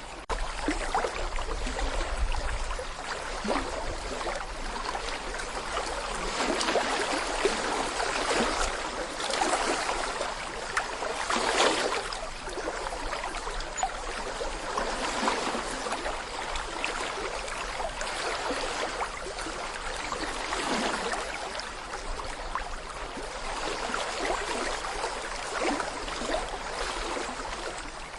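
Small brook babbling over stones: a continuous splashing and gurgling with many little splashes, swelling and easing now and then. A low rumble, which could be wind on the microphone, is heard for the first couple of seconds.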